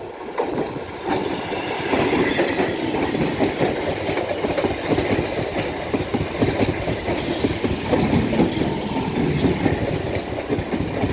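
Electric multiple unit (EMU) local train running on the track, a steady rumble and rattle that builds over the first two seconds. There is a brief high hiss about seven seconds in.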